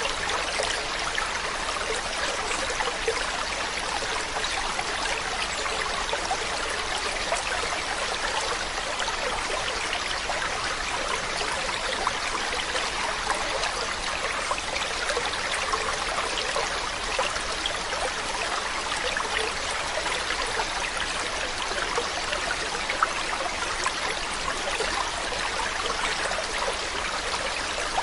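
Water running and trickling steadily, like a small stream over stones, with a dense patter of small splashes.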